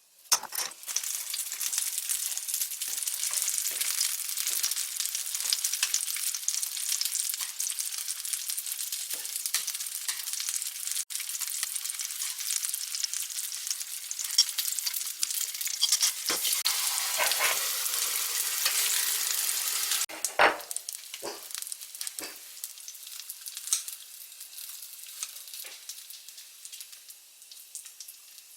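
Food frying in a pan: a steady crackling sizzle. It turns quieter about twenty seconds in, with a few short knocks just after.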